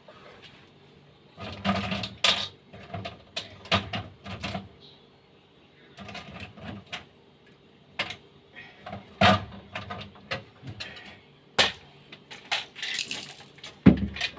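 Irregular clicks, clinks and knocks of screws and tools being handled against metal parts while a refrigerator's defrost timer is being screwed into place.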